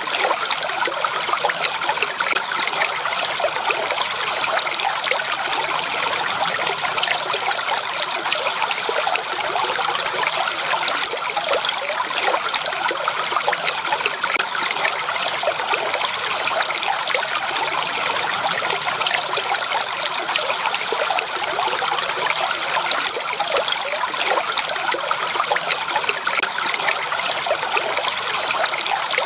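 Natural running water: a small stream trickling and babbling over stones, a steady, unbroken splashing with fine bubbling detail.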